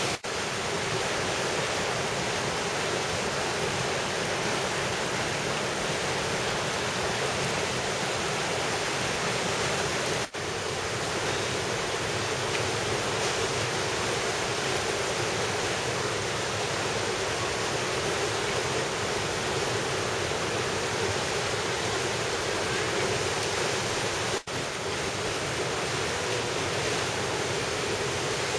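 Rushing water of a valley stream, a loud, steady, even rush that dips for an instant twice.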